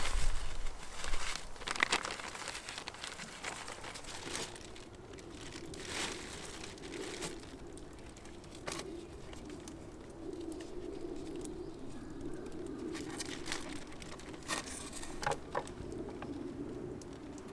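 A dove cooing in a low, repeating call, with scattered crinkling and sharp clicks of things being handled close by.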